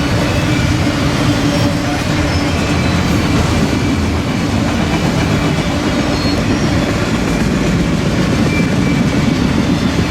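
Long BNSF auto rack freight train rolling past: a loud, steady rumble of steel wheels on rail with a low steady hum underneath.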